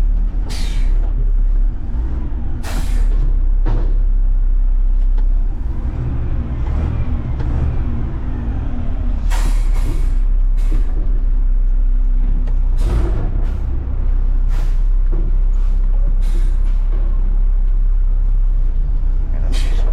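Front-load garbage truck's diesel engine running with a heavy low rumble, cut by a dozen or so short, sharp air hisses from the air brakes. A steady droning tone holds for several seconds midway.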